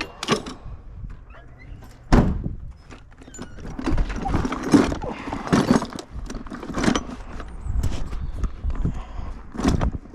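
Irregular knocks and clunks of tools and parts being handled on a car, with a heavy thunk about two seconds in and busier clattering after that.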